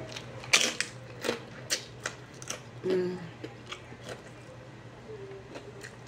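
Fried corn tortilla chips crunching and being chewed in the mouth: a string of sharp, irregular crunches. A short hum of the eater's voice comes about three seconds in.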